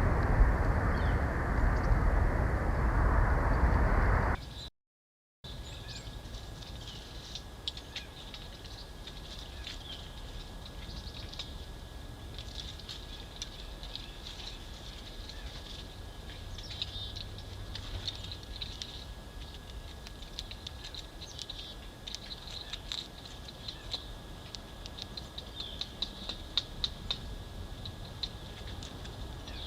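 Small forest birds chirping, many short high calls coming thick and fast, more of them in the latter half. At the start a loud low rushing noise runs for about four seconds and then cuts off abruptly.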